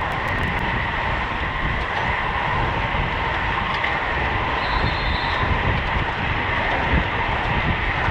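Steady wind rush and road noise of a racing bicycle riding at speed, with a steady whine running under the rumble.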